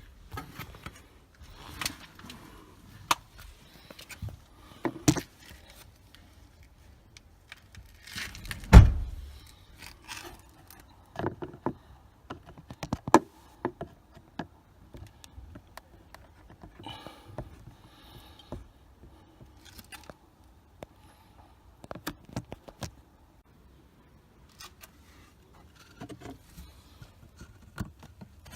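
Plastic clicks, scrapes and rustling from handling the cabin air filter housing and filter behind a SsangYong Rexton Sports glove box, with one loud thump about a third of the way through.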